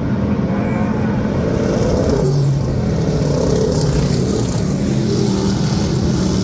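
Dirt-track race car engines running loud and steady on the track.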